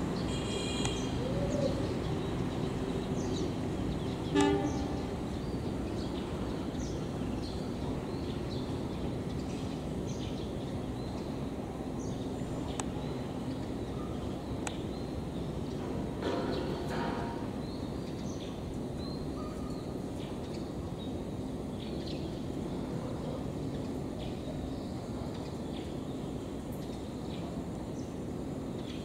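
Passenger train rolling away over the station tracks and turnouts, a steady low rumble that slowly fades. A brief sharp tone sounds about four seconds in, and a fainter one around sixteen seconds.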